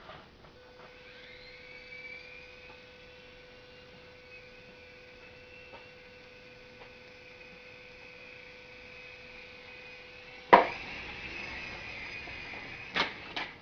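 Small coaxial RC toy helicopter's electric motors and rotors whining in flight, the pitch wavering slightly. A sharp knock comes about ten seconds in, after which the whine is louder, and two more knocks follow near the end.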